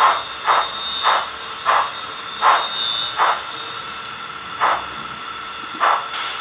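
ESU LokSound decoder's small speaker in an HO-scale EF210 model playing a rhythmic hissing clatter over a faint steady tone. The strokes come about two a second at first and slow to about one every second or so, which fits the locomotive's speed-linked sound winding down as it slows.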